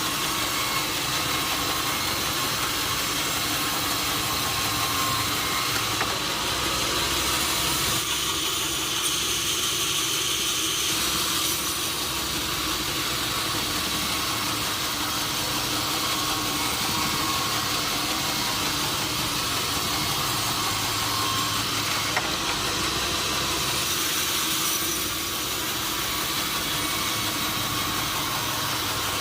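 Sawmill machinery running steadily: a continuous mechanical noise with a few steady tones, even in loudness throughout.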